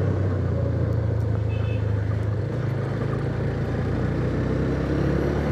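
Motorcycle engine running at steady revs while cruising, a low even drone.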